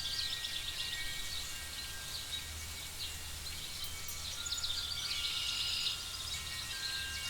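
Layered fantasy night-forest ambience. A steady low rumble runs under long, soft, held chime-like tones, with bursts of rapid high chirping calls at the start and again from about four and a half to six seconds in.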